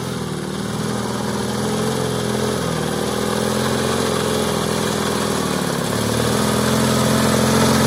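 Soviet flat-twin motorcycle engine running at low revs, its pitch dipping a little and then rising as it grows louder near the end.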